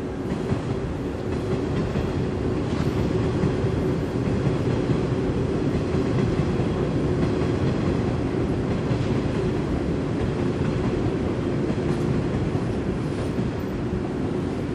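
Taiwan Railways passenger train running past on the track, a steady noise of wheels on rail with a constant hum beneath it.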